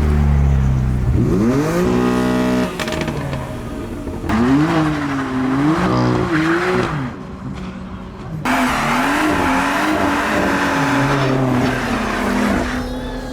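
Modified cars pulling away hard with engines revving and tyres spinning: a quick rev climb about two seconds in, then an engine note that rises and falls again and again over tyre screech.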